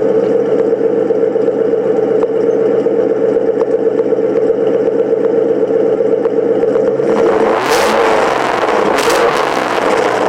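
2001 Ford Mustang GT's 4.6-litre V8 idling after a cold start through an aftermarket exhaust, a steady even burble. About seven seconds in, a louder rushing noise joins it for the last few seconds.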